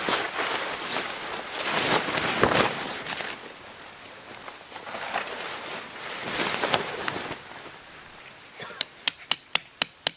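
Rustling and handling noise, then near the end a quick run of sharp hammer strikes, about four a second.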